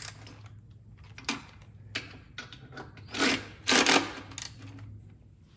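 Clicks and clanks of hand tools, then two short bursts of a power tool a little past halfway, over a low steady hum.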